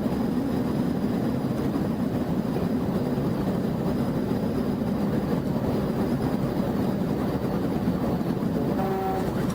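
Steady road and engine noise from a pursuing police car driving at high speed, a constant low rush without breaks.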